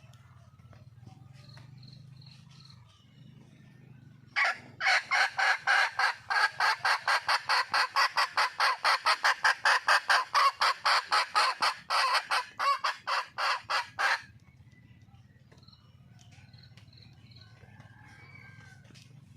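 Junglefowl hen calling a rapid run of loud, sharp notes, about four a second for roughly ten seconds, starting about four seconds in and stopping abruptly. It is the call of a wild hen seeking a male.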